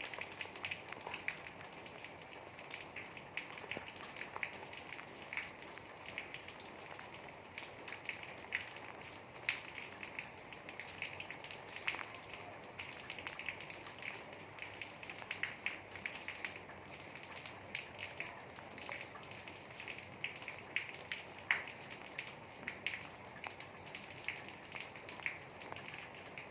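Rain falling steadily, with many individual drops heard as irregular sharp ticks over a continuous hiss.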